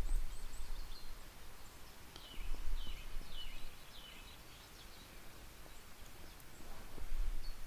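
Small bird singing a short run of five or six quick chirps that slur downward, over a steady outdoor hiss. There are bursts of low rumble near the start and again near the end.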